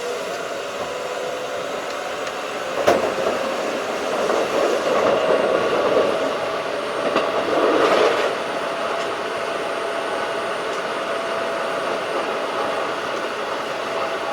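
Keikyu 1500 series field-chopper-controlled electric train running, a steady rumble of wheels on rail with a faint hum. One sharp clack comes about three seconds in, and the noise swells for a few seconds around the middle.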